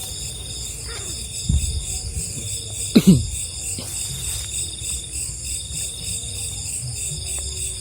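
Night insects, crickets, trilling steadily in several high pulsing bands. There is a low thump about a second and a half in, and a short, louder sound falling in pitch about three seconds in.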